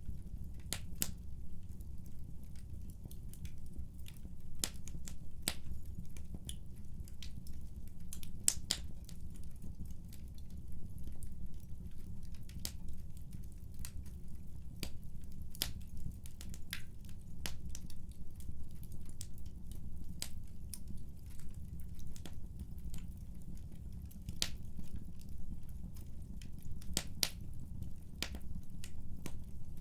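Wood fire burning in a fireplace: a steady low rumble of the flames with sharp, irregular pops and crackles from the burning wood.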